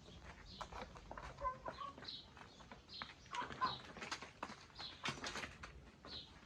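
Local chickens clucking, with short high peeping calls repeating about once a second and many quick sharp taps among them.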